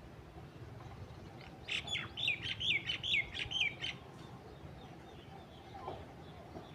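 A bird calling: a quick run of about seven clear, down-slurred chirps over about two seconds, starting near the middle.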